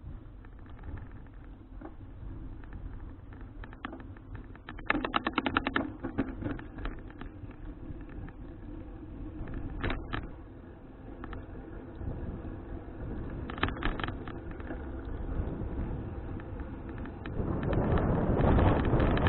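Bicycle riding noise picked up by a bike-mounted action camera: a steady low road rumble, broken by short bursts of rapid clicking and rattling a few times. Near the end a louder rush of wind on the microphone comes in and stays.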